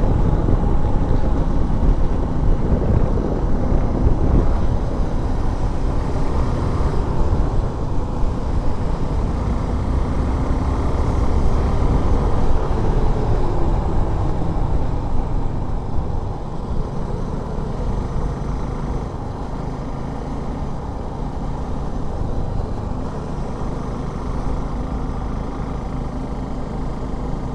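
Motorcycle on the move: the engine runs steadily under heavy wind rush, its pitch rising and falling slightly about halfway through.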